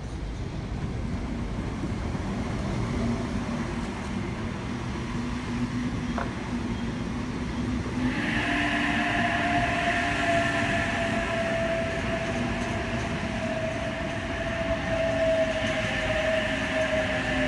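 An OSCAR H-set electric multiple-unit train rolls in to a stop with a steady rumble. About eight seconds in, a whine starts and slowly falls in pitch as the train slows.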